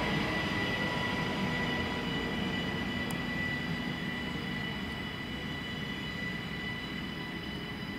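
Electric train running past the station, its rumble slowly fading as it moves away, with a steady high-pitched whine.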